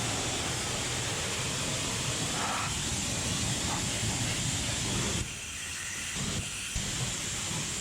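Pressure washer spraying water in a steady hiss over a low machine rumble. The spray cuts out briefly a little past the middle, then starts again with a click.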